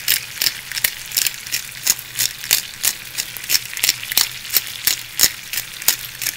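Chicken breasts frying in butter and olive oil in a skillet over medium-high heat: a steady sizzle with frequent sharp pops of spattering fat, a few a second.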